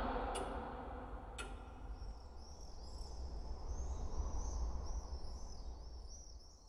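Faint outdoor ambience: a low rumble with, from about two seconds in, a series of quick, high chirping calls of small birds.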